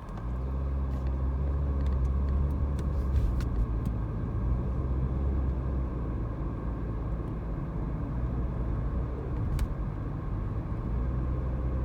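Car engine and road rumble heard from inside the cabin while driving: a steady low drone that steps up in level right at the start and then holds.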